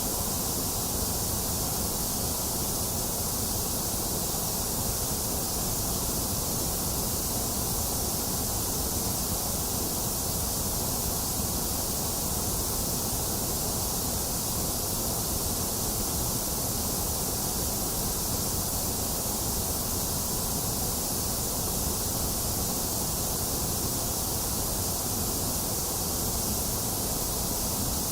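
Box fan running steadily together with falling rain, making an even, unchanging hiss.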